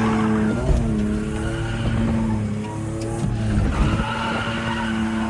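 Drift car's engine held high in the revs while the tyres screech in a slide. Its pitch dips briefly twice, then comes back up.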